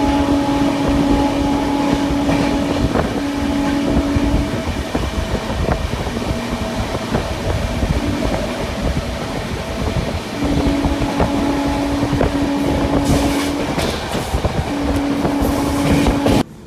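Express train running at speed: a dense rumble of wheels on rails with clicking over the rail joints. A steady humming tone comes and goes over it three times. The sound cuts off suddenly near the end.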